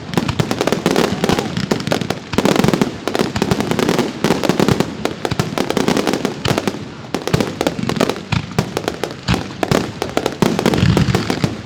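Fireworks display in full barrage: a dense, unbroken run of bangs and crackling, many reports a second.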